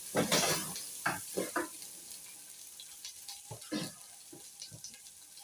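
Raw rice frying in hot cooking oil in a metal sufuria, sizzling, while it is stirred with a few scraping strokes, most of them in the first two seconds. The rice is starting to stick to the bottom of the pot.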